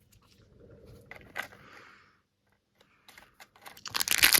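Soft rustling and small handling clicks, then loud crackling crinkles near the end as a toy's crinkly blind bag is handled and torn open.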